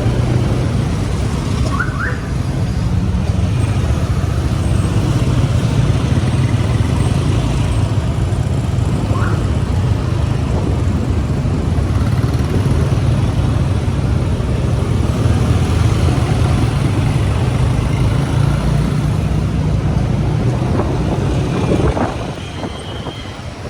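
Motorcycle engine running steadily under way, with wind and road noise on the rider's microphone. Two brief high chirps sound early on, and the engine note drops and quietens near the end.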